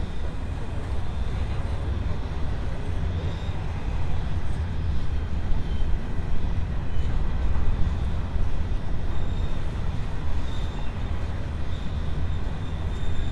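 Coal train hopper wagons rolling past on the rails, a steady heavy rumble.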